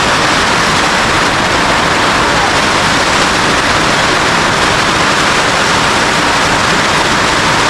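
Heavy rain falling steadily on a newly finished roof, a loud, even hiss with no letup.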